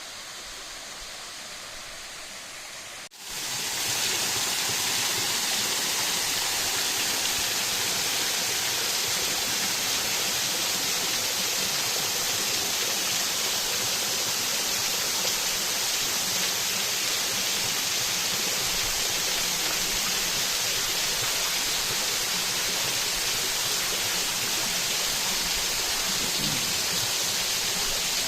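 Waterfall rushing steadily. It is quieter for the first three seconds, then comes in much louder after a brief break.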